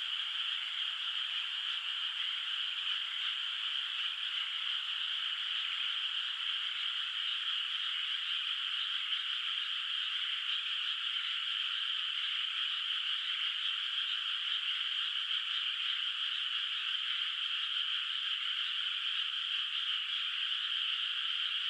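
A dense chorus of many frogs calling at once, steady and unbroken, with no single call standing out.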